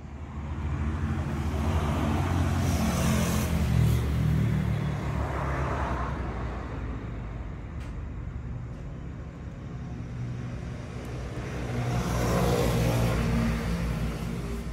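A motor vehicle's engine runs close by with a steady low hum. It swells louder during the first few seconds and again about twelve seconds in, as if vehicles are passing.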